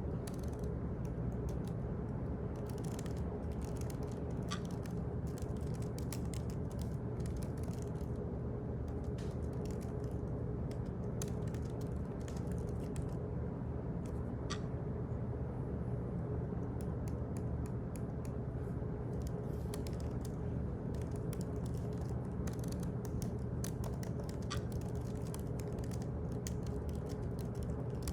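Office ambience: a steady low hum of room or ventilation noise with irregular clusters of computer-keyboard typing clicks over it. A slightly sharper tick recurs about every ten seconds.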